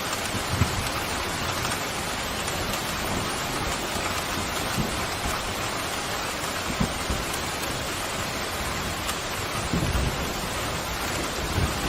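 Steady, heavy rain pouring, with a few brief low rumbles of thunder, the strongest about ten seconds in.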